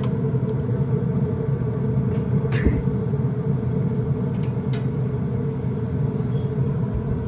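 A steady mechanical hum, like a motor or engine running, with a couple of short clicks partway through.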